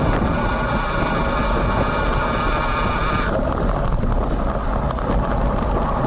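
Wind buffeting the built-in microphone of a bicycle-mounted camera, a steady low rumble. Over the first half a steady high-pitched buzz rides on top of it and cuts off suddenly a little past the middle.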